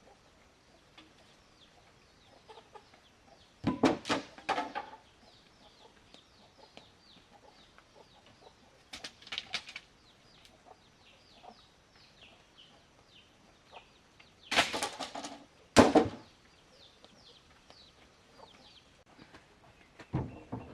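Chickens clucking and squawking in several loud bursts: one about four seconds in, another about nine seconds in, and a pair near fifteen seconds. Many faint, short, high chirps falling in pitch continue between the bursts.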